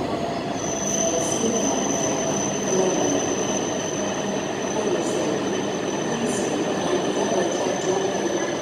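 Tohoku Shinkansen Hayabusa train rolling in along the platform as it slows to a stop, a steady rushing rumble of wheels and cars sliding past. A thin, steady high-pitched whine sets in about half a second in and holds.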